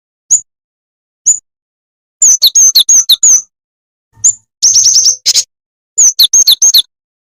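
Jing-jing tetep bird calls played as a lure recording: high, thin chirps, two single ones near the start, then three quick runs of rapid chirps with falling notes about two, four and six seconds in.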